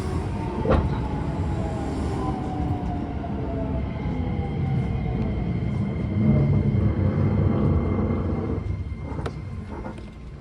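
Keisei 3000-series electric train slowing down, its motor whine falling steadily in pitch over rumbling running noise. It grows quieter about eight and a half seconds in as the train draws to a stop.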